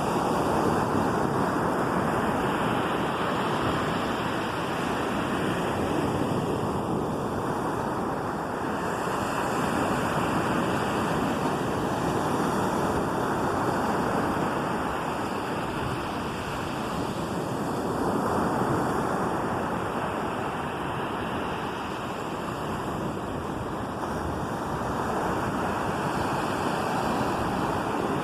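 Ocean waves breaking and washing up a beach: a steady rush of surf that swells and eases every few seconds, with wind buffeting the microphone.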